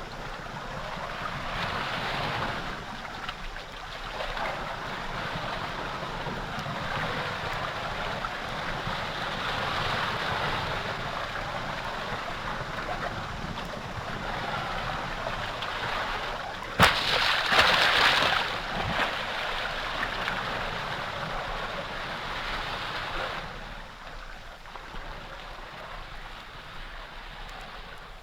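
Sea water rushing and washing in surges that swell and ease every few seconds. About two-thirds of the way through there is a sharp knock, followed by a louder burst of breaking, splashing water.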